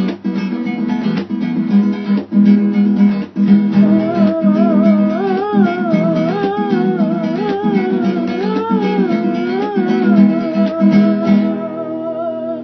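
Strummed acoustic guitar chords. About four seconds in, a wordless vocal melody with a wavering vibrato joins, and it ends on a long held note near the end.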